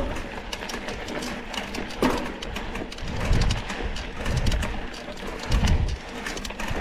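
Mountain bike rattling over a rough dirt trail, with many small clicks and knocks from the bike, and three heavy low rumbles in the second half.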